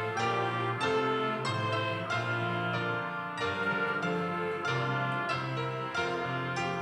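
Piano and band playing worship song music, with sustained chords over a moving bass line.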